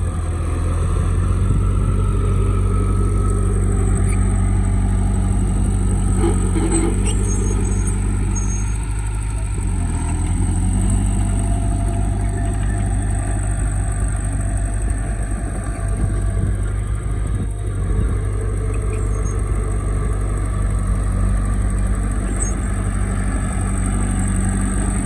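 Truck engine running steadily, dropping in pitch briefly about ten seconds in and then picking up again.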